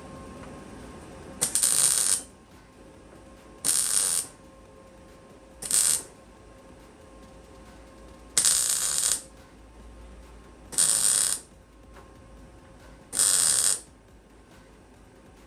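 Welder laying a run of short tack welds on van body steel: six crackling bursts of under a second each, about two and a half seconds apart.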